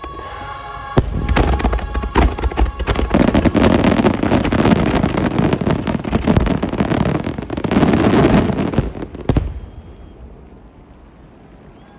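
Starmine fireworks barrage: many shells bursting in quick succession with dense crackling, over music. It builds about a second in and stops abruptly a little over nine seconds in, leaving the scene much quieter.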